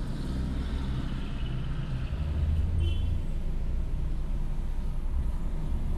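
Car engine idling: a steady low rumble, swelling a little about two seconds in, with a brief high chirp about three seconds in.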